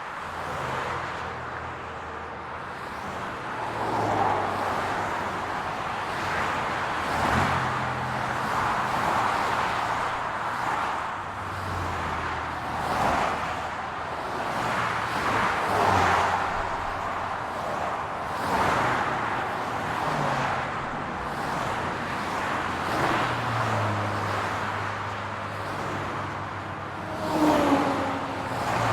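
City road traffic: cars passing one after another, their tyre and engine noise swelling and fading every few seconds over a steady low engine hum. Near the end, one louder pass carries a brief falling tone.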